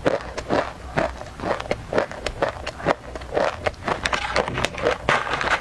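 Close-miked chewing of a crunchy dry snack, a steady run of crisp crunches about two to three a second.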